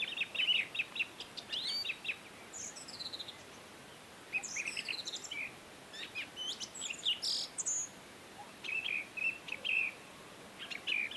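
Small birds chirping and calling: quick series of short high chirps and a few falling whistled notes, coming and going over a faint steady background hiss.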